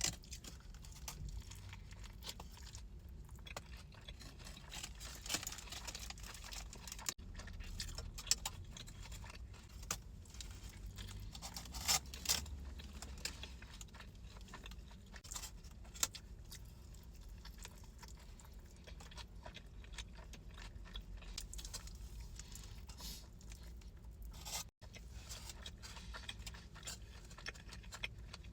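Close-miked handling of food and its packaging: rustling, tearing and scraping, with scattered sharp clicks.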